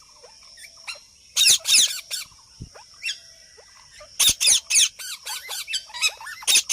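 Parrot giving shrill, high-pitched squawks in quick runs: one burst about a second and a half in, then a longer series of calls over the last few seconds.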